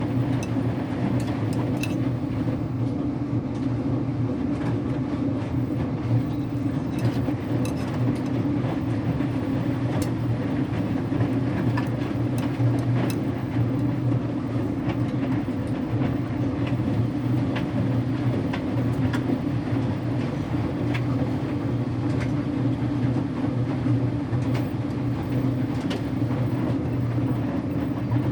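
Electrolux Wascator W355H commercial washer-extractor running its wash stage: a steady motor hum with the drum turning and scattered light clicks and ticks.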